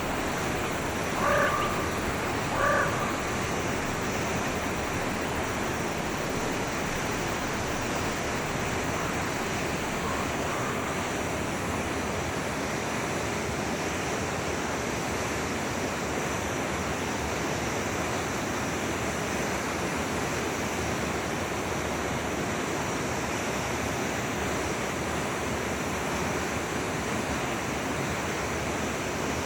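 Steady rushing of a flowing stream, with two short, harsh animal calls about a second apart near the start and a fainter one around ten seconds in.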